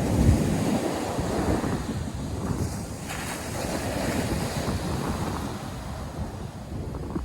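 North Sea surf washing onto a sandy beach, with wind buffeting the microphone; louder in the first couple of seconds, then easing off.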